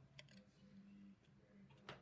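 Faint handling of LEGO plastic pieces: a soft click shortly after the start and a sharper snap near the end, over a low steady hum.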